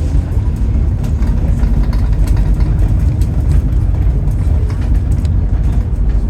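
Scania double-decker bus's diesel engine running steadily, with a few light clicks or rattles through the middle.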